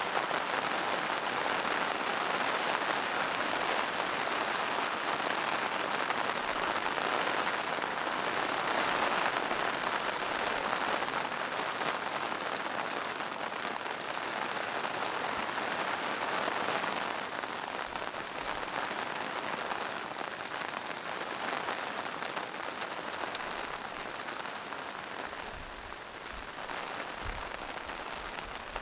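Steady rain falling on a forest, pattering on leaves and moss-covered rocks, easing slightly in the second half.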